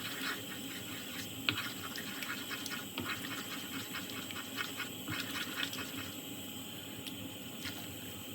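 Milk and fried spice paste cooking in a pan, a scatter of small bubbling pops and crackles that thin out after about six seconds.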